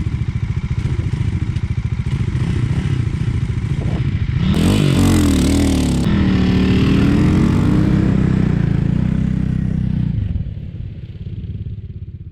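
Off-road motorcycle engine running with a pulsing exhaust note. About four and a half seconds in it is revved, with a burst of hiss and the pitch rising and falling. It eases off and drops away near the end.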